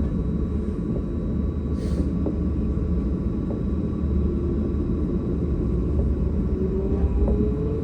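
Tram running on its rails: a steady low rumble, with a whine that starts near the end and rises in pitch as the tram picks up speed.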